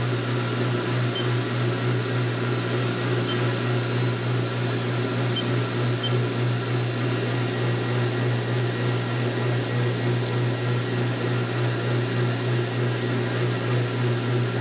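Steady low machine hum of a working machine shop, with a gentle regular pulse: a lathe turning a very large shaft nearby, over the running CNC turning center.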